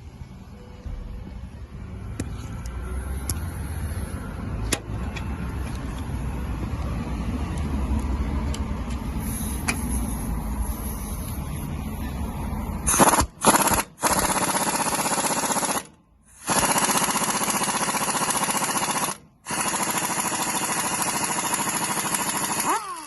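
Impact wrench hammering in several bursts of one to three seconds, loosening the bolts on a truck's rear brake and hub assembly. It is preceded by a low rumble and a few clicks of handling.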